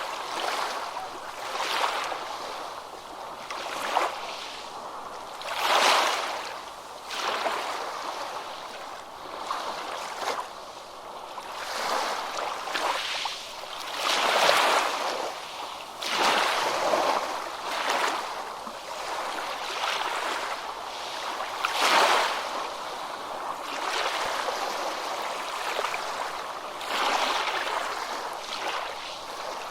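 Ocean waves breaking on a beach: a steady wash of surf that swells and falls back every couple of seconds, with bigger breaks about six, fourteen and twenty-two seconds in.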